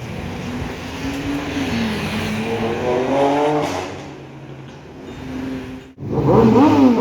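A car accelerating hard, its engine note climbing through the revs and then fading as it goes away. Near the end, after an abrupt cut, a second car revs loudly.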